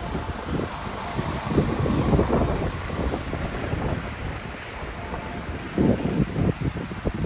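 Wind buffeting the microphone: an uneven, gusting low rumble with no steady engine note.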